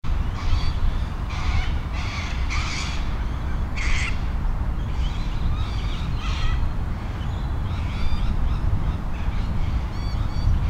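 Birds calling repeatedly over a steady low rumble: several short, harsh calls in the first four seconds, then lighter chirps.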